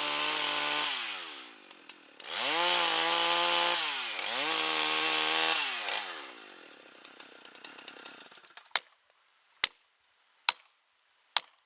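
Chainsaw running at full throttle through a cut, its revs dipping briefly twice, then released about six seconds in. Near the end come sharp single strikes, about one a second.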